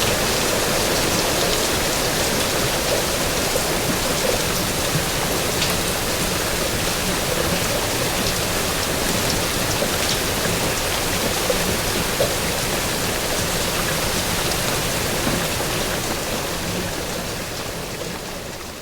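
Steady rain, with scattered drops ticking, fading out near the end.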